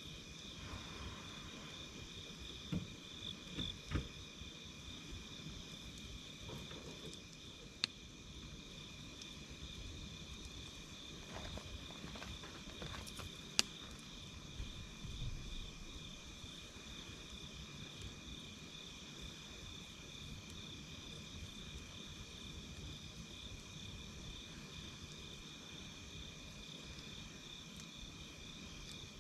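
A steady chorus of night insects such as crickets, one singer pulsing at a high pitch over a second steady, lower trill. Now and then a wood campfire gives a single sharp pop or crackle.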